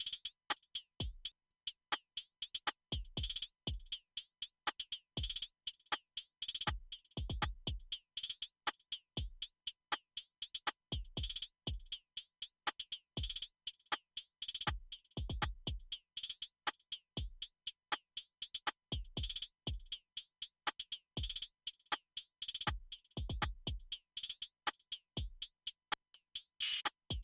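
Programmed drum-machine beat looping from Native Instruments Maschine software: deep kicks with a falling pitch, snare and rim-shot hits, and fast hi-hat ticks, while each drum's level is set for parallel compression.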